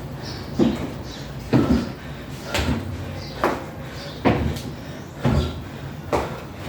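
Footfalls thudding on a 20-inch box and the floor during dumbbell box step-up-and-overs, about one heavy step a second.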